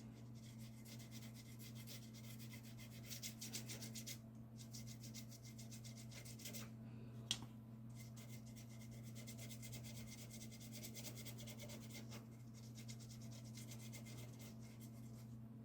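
Faint rapid scratching of a paintbrush rubbing and dabbing gouache onto watercolour paper, in quick strokes with a few short pauses, over a steady low hum. A single small tick about seven seconds in.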